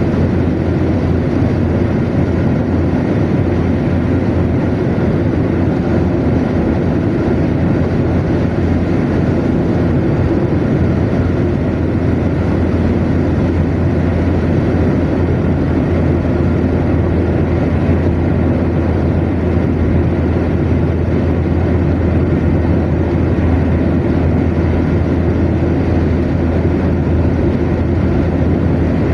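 Car cruising at steady motorway speed: an even, unbroken low rumble of tyres on the road with engine drone, with no changes in speed or pitch.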